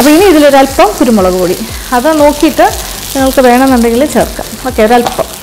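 Cooked basmati rice sizzling in a hot wok on a high gas flame, stirred and scraped with a wooden spatula at first, with a woman's speaking voice over it.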